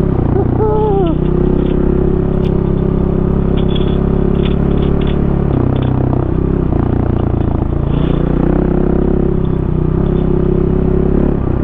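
Single-cylinder four-stroke enduro dirt bike engine running under way, its note dropping briefly about five and a half seconds in and picking up again about two seconds later, with scattered light clicks and scrapes.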